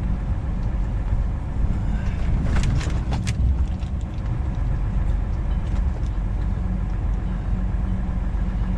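Truck's diesel engine running steadily under way, heard from inside the cab as a low drone. A few short clicks come between two and a half and three and a half seconds in.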